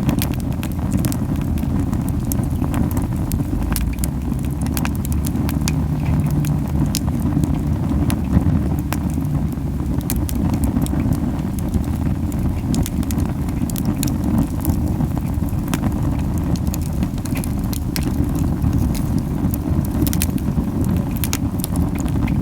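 Camellia wood burning hard in an open campfire: frequent sharp crackles and pops over a steady low puffing rumble of the flames, strong because the fire is burning very hot.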